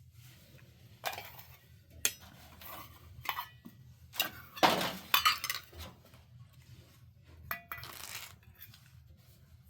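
Dishes and metal cooking utensils clinking and clattering: a string of separate knocks and clinks, the loudest cluster a little before halfway.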